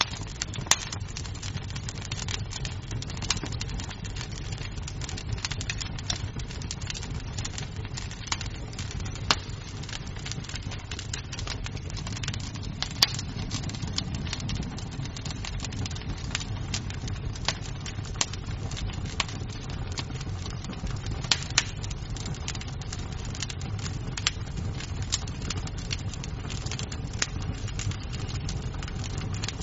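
Wood fire crackling in a fireplace: a steady low rumble of flames with frequent, irregular sharp pops and snaps of burning wood, a few louder snaps standing out.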